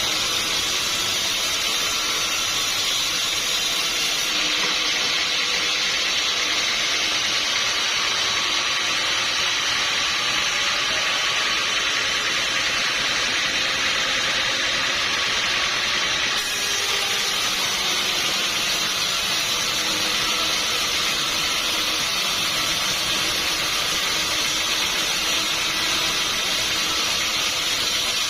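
Sawmill saw cutting through a log: a steady, unbroken hiss of blade in wood that holds level for the whole stretch.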